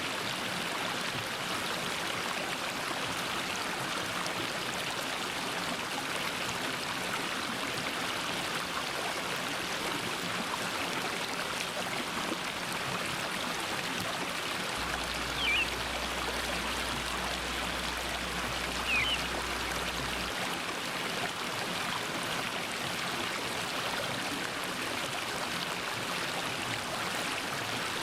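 Mountain stream flowing over rocks in a steady rush of water. Two short bird chirps come a few seconds apart about halfway through.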